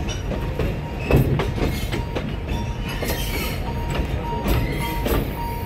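Narrow-gauge forest railway train rolling slowly, heard from inside the carriage: low rumble with irregular wheel clicks and knocks over rail joints. From about three seconds in, a repeated electronic beep sounds in short dashes.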